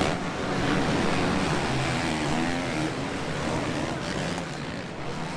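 Motocross bike engines revving over a steady noisy haze, the pitch rising and falling a couple of seconds in, gradually getting quieter toward the end.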